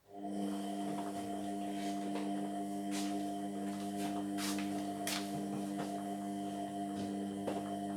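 Indesit MyTime washing machine mid-cycle, a steady electrical hum cutting in suddenly and running evenly, with a few faint clicks over it.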